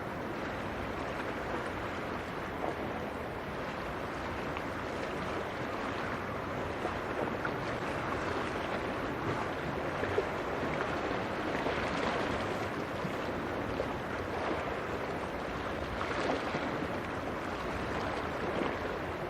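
Steady rush of wind and sea water, with wind on the microphone.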